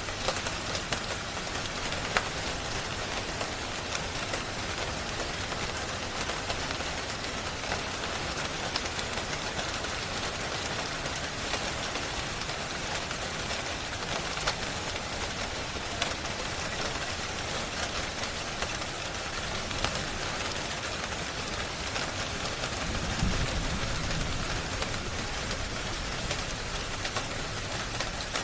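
Steady rain with scattered sharp crackles and pops from a fireplace. A brief low rumble comes about two-thirds of the way through.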